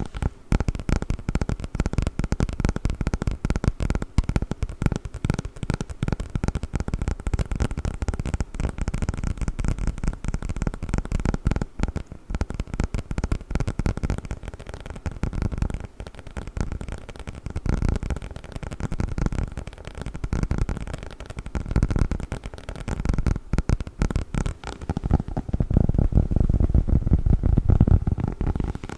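Play foam packaging handled close to the microphone: dense, rapid crackling and crinkling of the package, fuller and heavier for a few seconds near the end.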